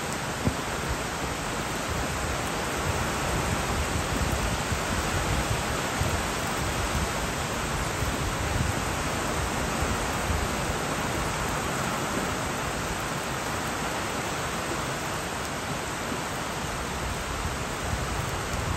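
Heavy rain falling steadily, an even hiss of downpour. One brief knock sounds about half a second in.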